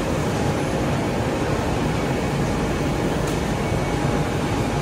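Steady rushing noise of a BTS Skytrain train standing at an elevated platform with its doors open, with a faint click about three seconds in.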